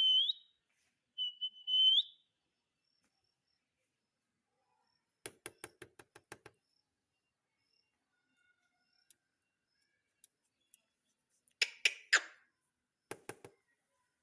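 Ringneck parrot giving two whistled notes, each held steady and rising at the end. A quick run of clicks follows about five seconds in, and a short harsh burst with a few more clicks near the end.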